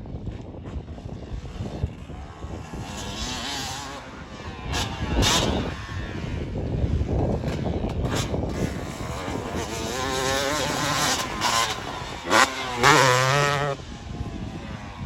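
Motocross bikes' engines revving as they ride past, the pitch rising and falling with the throttle, loudest a little before the end.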